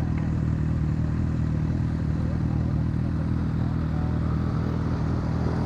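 Motorcycle engine running at a steady, unchanging engine speed while riding.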